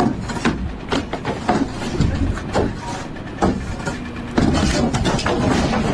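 An engine running with a low rumble under irregular clanks and knocks.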